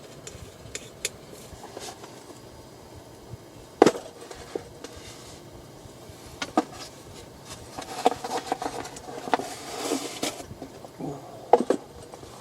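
Irregular knocks and clatter of objects being handled, with one louder knock about four seconds in and a busier run of small clatter near the end.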